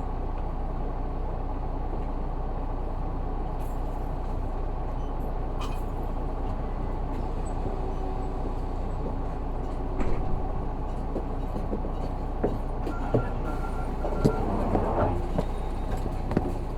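Isuzu Erga city bus heard from inside the cabin, its 6HK1 inline-six diesel running steadily as it drives along. From about ten seconds in, a scatter of short knocks and rattles sounds over the engine.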